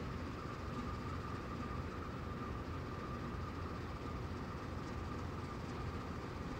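Freight train sounding as a steady low rumble, with a steady high-pitched whine over it.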